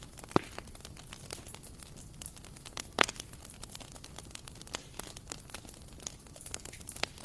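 Bonfire crackling: irregular sharp pops and snaps over a soft hiss, with the loudest pops about half a second in and about three seconds in.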